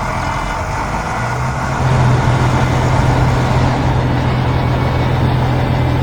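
Heavy-vehicle engine sound effect running steadily with a low hum, which grows louder about a second or two in and then holds.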